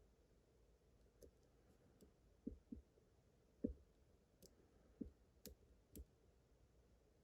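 Faint, irregular clicks of a lock pick and tension wrench working inside a pin tumbler lock, about nine small clicks with the loudest about halfway through, as a hard-binding pin is worked.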